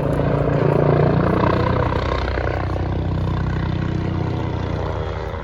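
An aircraft flying past at an airshow, its engine droning steadily and loudest about a second in.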